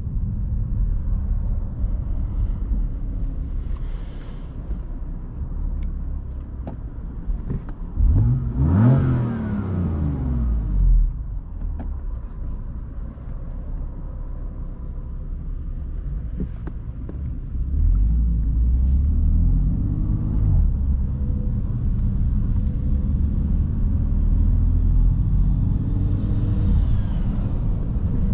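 BMW M3 F80's 3.0-litre twin-turbo inline-six running under way over a steady low road rumble. About eight seconds in the revs climb steeply in a short burst of acceleration, and from about eighteen seconds they rise again more gradually, twice.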